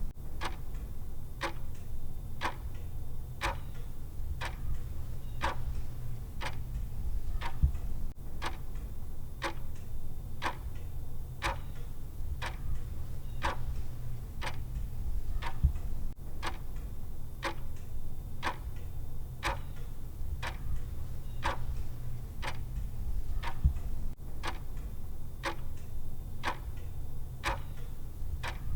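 Clock-style tick sound effect ticking steadily about twice a second over a low, steady hum. A short low knock stands out about every eight seconds.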